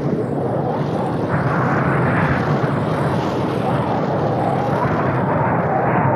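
Steady, loud rushing noise with no clear pitch, a dubbed-in sound effect.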